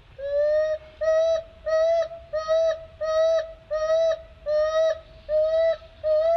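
Baby monkey giving a string of nine clear, tonal calls, about one every 0.7 seconds, each rising slightly then held: repeated distress calls for help.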